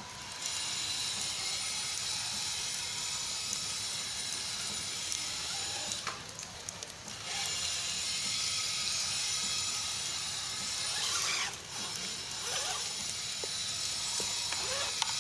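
HSP Kidking RC car running on wet ground: a steady hiss of spray and motor that cuts out about six seconds in and resumes a second later, with a whine that rises and falls near the end.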